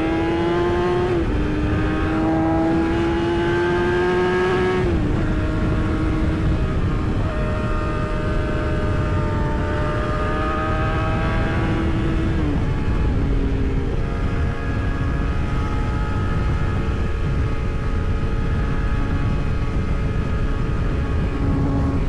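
Yamaha R6 inline-four sport bike engine under way, pitch climbing slowly and falling sharply a few times as the rider shifts or rolls off the throttle, over a constant rush of wind and road noise.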